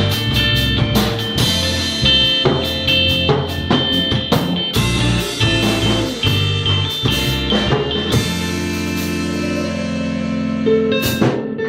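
Instrumental band music: a drum kit keeps a steady beat under bass and guitar lines, with a long held low note in the second half.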